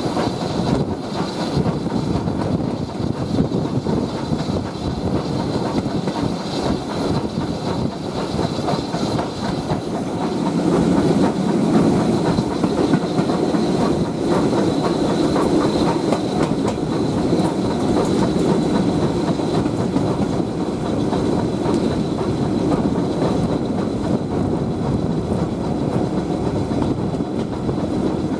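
Steam-hauled passenger train hauled by a BR Standard Class 4 2-6-4T tank locomotive, running along the line and heard from an open carriage window: a steady rumble of coaches and wheels clicking over the rails. It gets louder about ten seconds in.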